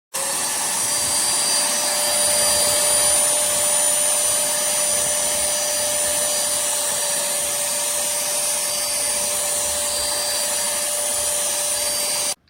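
Cordless handheld vacuum cleaner running steadily: a rushing noise with a steady hum and a thin high whine. It starts and stops abruptly.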